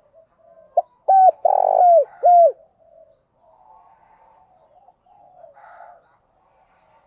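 Spotted dove cooing one phrase of four notes, each sliding down at its end: two short notes, a long middle note, then a short last note. Faint bird twitter follows.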